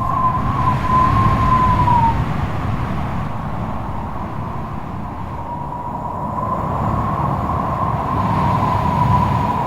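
Strong wind howling in gusts, a deep rumble underneath and a thin wavering whistle on top that drops away about two seconds in and rises again in the second half.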